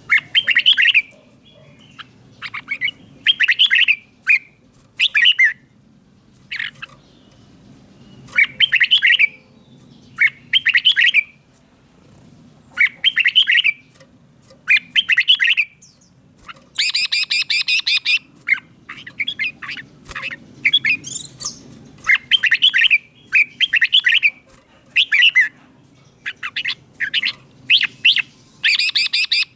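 Red-whiskered bulbul singing: bright, warbling phrases of about a second each, repeated with short pauses between them. A harsher, buzzier phrase comes about two-thirds of the way through, and another at the end.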